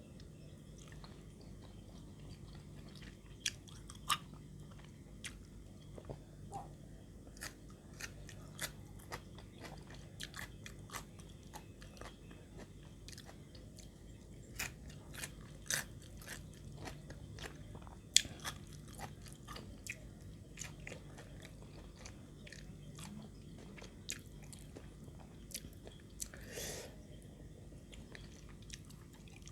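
Close-up chewing and crunching of pounded santol salad, with irregular crisp bites and wet mouth clicks, the sharpest crunch about two-thirds of the way through.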